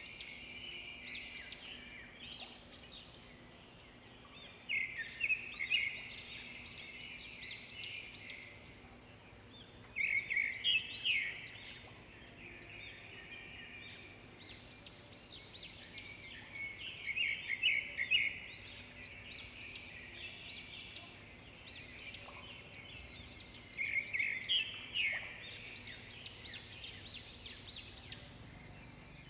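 Birds chirping and singing in a dense chorus of quick high notes, swelling into louder bouts every five to seven seconds.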